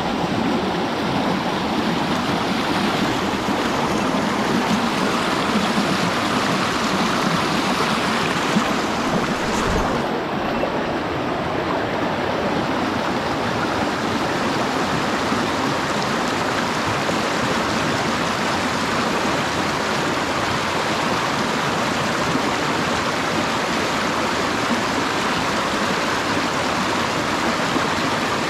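Mountain stream rushing steadily over rocks, a loud, even wash of water. A brief low bump a little under ten seconds in.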